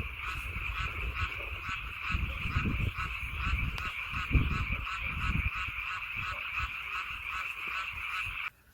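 A chorus of many frogs calling, a dense steady pulsing din, with a low rumble underneath; it cuts off abruptly near the end.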